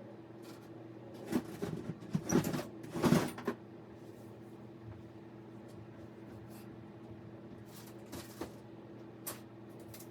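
A quick run of knocks and clatter, like hard objects being handled or a cabinet door banging, comes a little over a second in and lasts about two seconds. A few single clicks follow later, all over a steady low hum.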